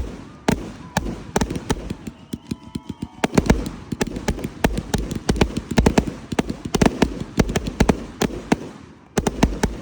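Fireworks going off in a rapid, unbroken barrage of sharp bangs and crackles, thinning out briefly about two seconds in before the volley picks up again.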